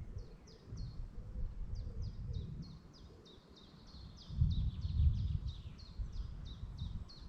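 A songbird singing a fast series of short, high, downward-slurred notes, about four a second, repeated without a break. Underneath runs a low rumble that swells briefly about four and a half seconds in.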